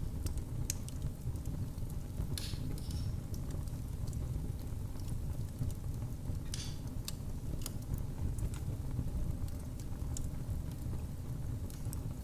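Wood fire burning in a fireplace: a steady low rumble of flames with scattered sharp crackles and pops, a few of them clustered around two and a half and seven seconds in.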